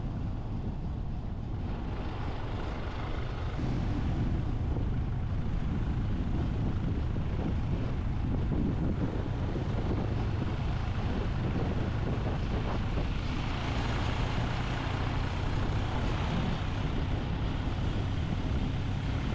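Motorbike engine running while riding along a road, with road and wind noise, getting louder about four seconds in.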